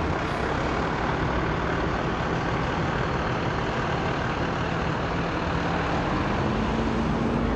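Fire ladder truck's heavy engine running steadily, its pitch rising slightly about six seconds in.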